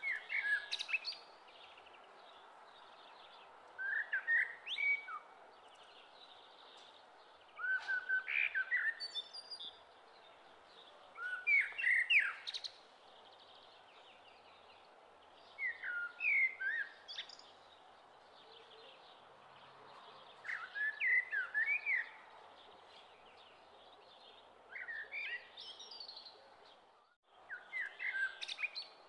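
A songbird singing: short phrases of quick chirping notes, one phrase about every four seconds, over a steady faint hiss.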